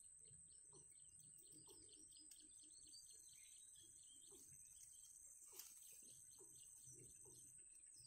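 Faint, quick bird chirps repeating in short runs over a steady high-pitched whine, with one soft knock about five and a half seconds in.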